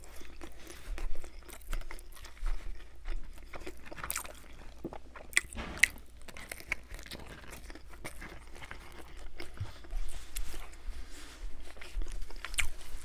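Close-miked biting and chewing of a thin, crisp Brooklyn-style Domino's pizza slice, the crust crunching in irregular clicks, with a few sharper cracks near the middle.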